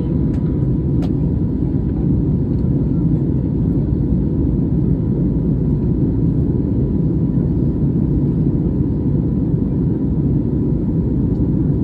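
Steady low roar of an Airbus A320 in flight, heard inside the passenger cabin: engine and airflow noise, with a faint steady whine above it.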